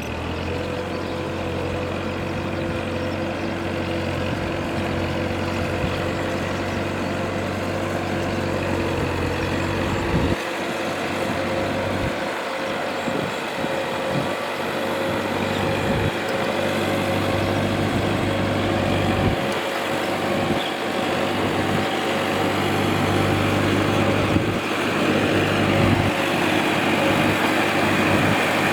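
Tractor diesel engine running steadily while working a rice field, with a steady whine above the engine note, growing gradually louder.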